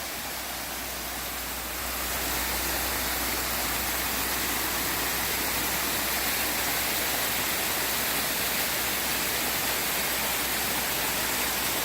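Waterfall, a steady, even rush of falling water, a little louder from about two seconds in.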